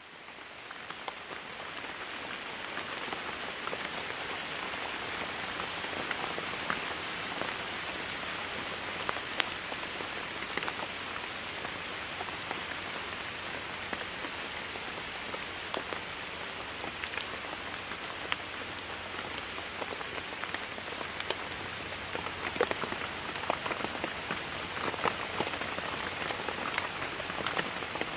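Steady rain falling on a surface, a dense even hiss with many separate drops ticking through it. It fades in over the first couple of seconds.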